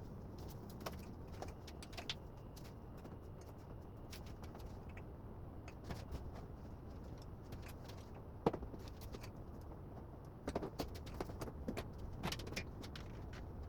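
Scattered light clicks and taps of hand work on a television under repair, over a low steady background rumble. The sharpest click comes about eight and a half seconds in, and a cluster of clicks follows near the end.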